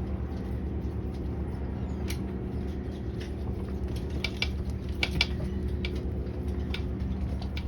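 Steady low mechanical hum with a few sharp clicks and taps scattered through it, clustered around the middle.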